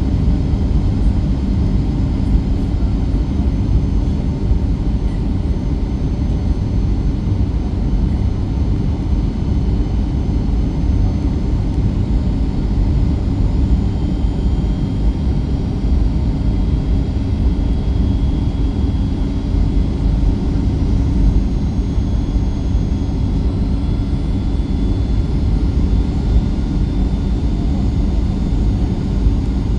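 Steady cabin rumble inside a Boeing 737-8 MAX in flight: its CFM LEAP-1B engines and airflow as a continuous low roar. A faint high whine comes in about halfway through.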